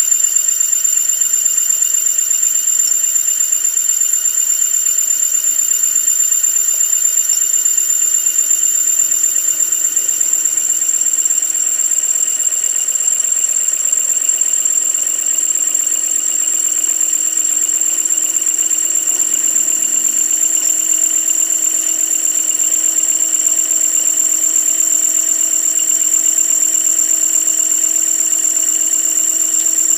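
Steady, loud, high-pitched whine from metalworking machinery, holding several fixed pitches without a break.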